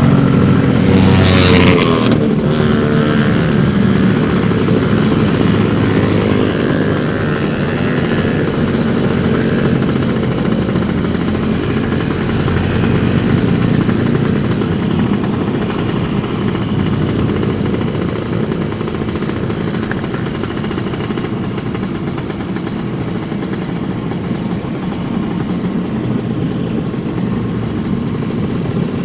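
Kawasaki 150 cc two-stroke motorcycle engine running steadily while riding. A brief hiss comes about a second and a half in.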